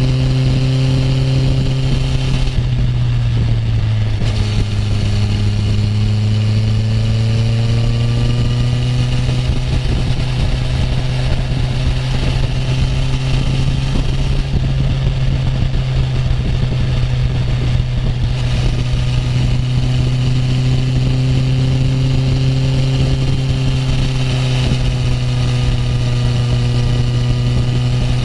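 Honda CB650F inline-four motorcycle engine cruising at a steady speed, its note dipping briefly about three seconds in and then rising slowly again, over a constant rumble of wind.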